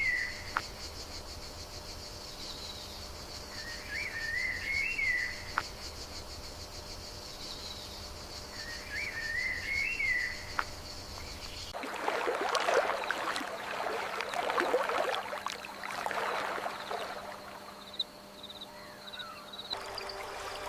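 Forest ambience: a bird repeats a short warbling phrase about every five seconds over a steady high insect drone. About twelve seconds in, the sound cuts to a busier, louder stretch of many overlapping bird chirps that thins out toward the end.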